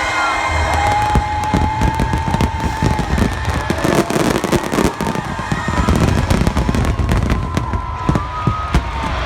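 Fireworks finale: a dense, rapid barrage of shells bursting and crackling over a continuous low rumble, with thin whistling tones drawn out over it.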